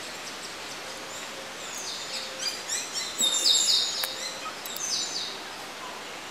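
Birds chirping in clusters of quick, high-pitched, falling notes, busiest between about two and five seconds in, over a steady outdoor hiss.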